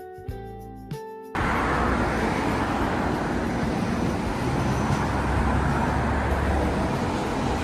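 Gentle instrumental music with separate plucked or keyed notes cuts off about a second in. Steady city street traffic noise follows, with the low rumble of passing vehicles.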